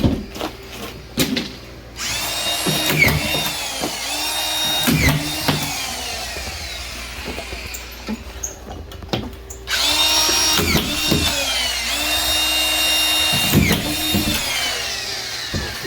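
Cordless drywall screw gun driving screws through a plasterboard ceiling sheet. It runs in two long spells with a short pause between, its motor whine repeatedly rising and dropping away as each screw is driven home.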